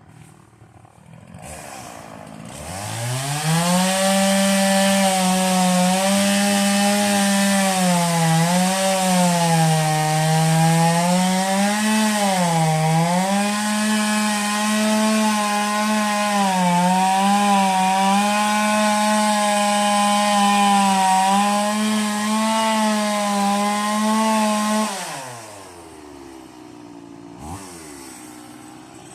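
Stihl two-stroke chainsaw revved up to full throttle and held there for about twenty seconds, its pitch sagging several times as the chain bites into wood. It then drops back to idle, with one short blip of throttle, and revs up again at the very end.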